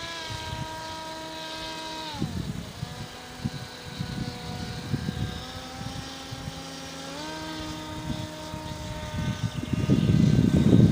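Pusher-propeller airplane's motor and propeller: a whine that rises sharply as it throttles up, holds steady, drops in pitch about two seconds in, then rises again about seven seconds in. Near the end, loud low gusty noise joins it.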